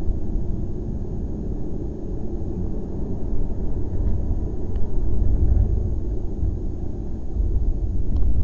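Lamborghini Gallardo's V10 engine and tyre noise heard from inside the cabin while the car cruises: a steady low rumble.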